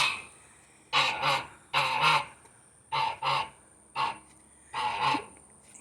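Domestic gander honking: a run of short honks, about two a second, with brief gaps between them.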